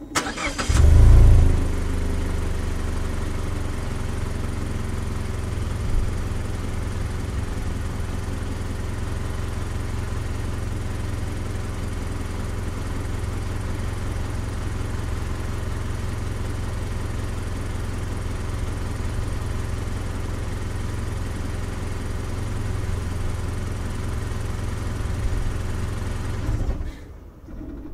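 Mazda CX-5 engine started from outside beside the car: a brief crank, a quick rev flare about a second in, then a long steady idle. The engine is switched off shortly before the end and the sound drops away suddenly.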